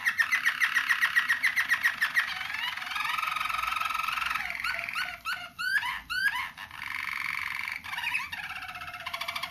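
Young roller canaries singing a string of tours: a fast run of repeated notes, then steady rolling trills, a few sharp swooping notes midway and another fast run near the end. The young birds are still forming new song passages.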